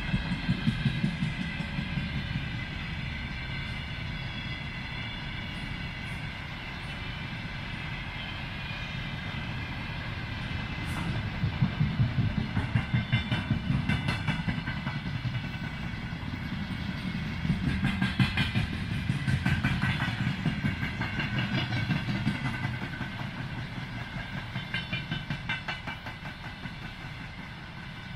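Container freight train rolling past, a steady rumble with clusters of rapid wheel clacks over the rail joints coming and going, over a steady high ringing.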